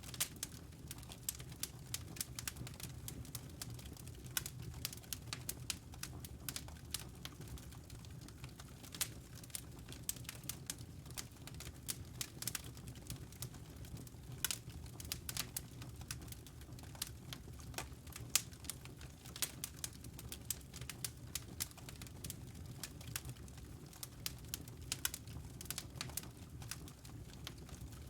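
Wood logs burning in a fireplace: irregular crackling pops, several a second, over a low steady rumble.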